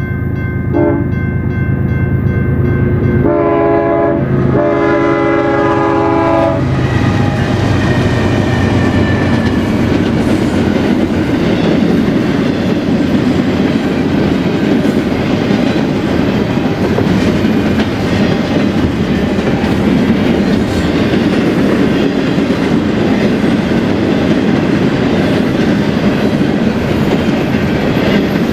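BNSF freight train passing: the diesel locomotive running, a short horn toot about a second in, then the air horn's chord of several tones held for about three seconds with a brief break. From about six seconds in, the steady sound of the cars' wheels rolling over the rails.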